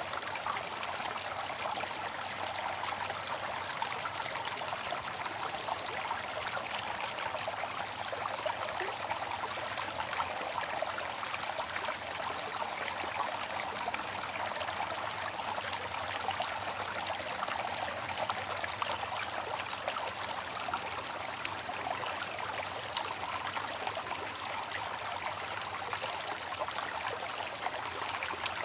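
Water fountain running steadily: a continuous splashing trickle of falling water.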